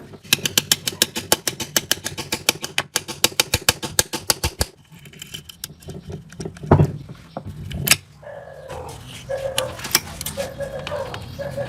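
A fast, even run of sharp metallic clicks for about four and a half seconds, then two single knocks, then a wavering high whine.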